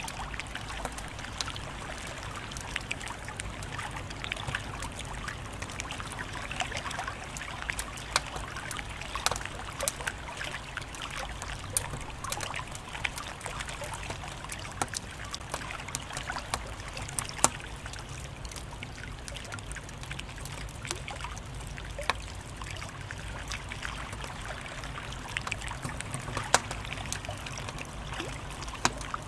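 Wood fire crackling: a steady hiss and low rumble with irregular sharp pops, a few of them louder.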